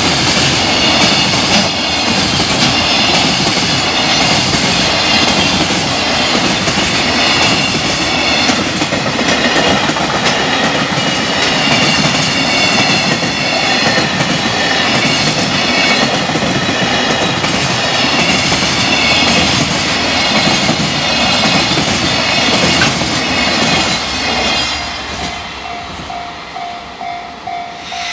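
Long freight container train passing close by, its wagon wheels clattering rhythmically over the rail joints, with a level-crossing warning bell ringing. About 25 seconds in, the train's tail passes and the clatter dies down, leaving the crossing bell pulsing on its own.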